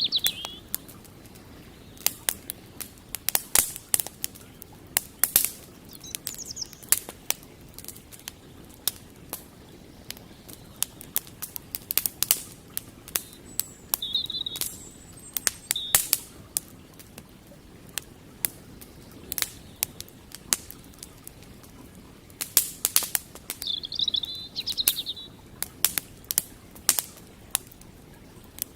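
Wood campfire crackling, with irregular sharp pops and snaps of burning wood over a faint steady background hiss. Birds chirp in short bursts a few times, most strongly near the middle and toward the end.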